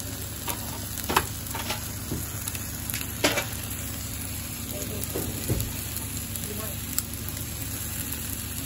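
Eggs, bacon and tomato sizzling on a flat-top griddle, a steady frying hiss, with a few sharp clicks.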